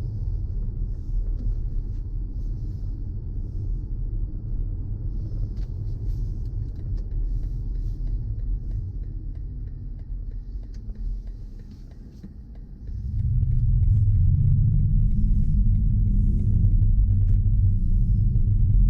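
Low rumble of a car on the move, with road and engine noise. It dies down briefly about twelve seconds in, then comes back louder and stays up.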